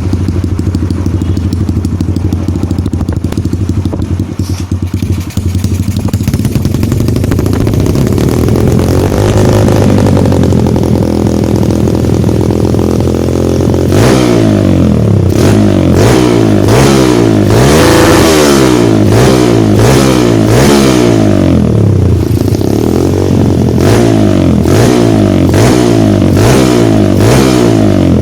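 Kawasaki KLX150's single-cylinder engine running through an aftermarket racing exhaust. It idles steadily, gives one slow rev about nine seconds in, then from about halfway gets a string of quick throttle blips, each rising and falling in pitch.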